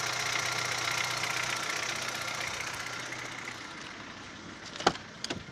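Daewoo Nexia 8-valve engine running with a knock that the owner cannot explain and says is not the hydraulic lifters or valves. The engine sound fades out about three and a half seconds in, followed by two sharp clacks near the end.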